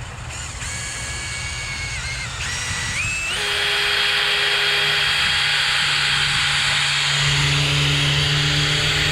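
Power drill boring a long drill bit into a dead tree trunk to probe for the hollow holding the bee colony. The motor's whine climbs in pitch over the first few seconds, then holds steady under load.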